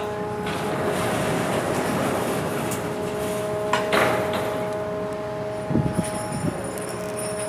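Steady machinery hum and rumble of a ferry during docking, with a couple of metallic clanks and knocks about four and six seconds in.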